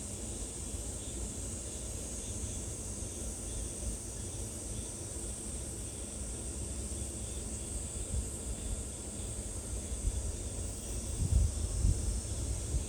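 Outdoor ambience: a steady high-pitched insect drone, with wind buffeting the microphone as a low rumble that gusts louder near the end.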